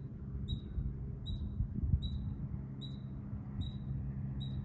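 A short, high-pitched chirping call repeated at an even pace, about once every 0.8 seconds, over a steady low hum.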